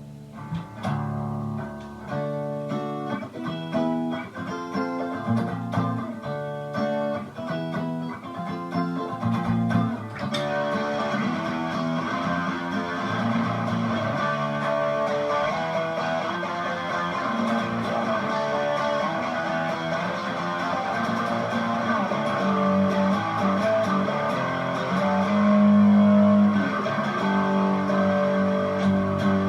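Strat-copy electric guitar played through a Boss DS-1 distortion pedal with the distortion fully up and the tone at the middle, heard through a small guitar amp and cab. Short, separate chords for about the first ten seconds, then continuous sustained distorted playing.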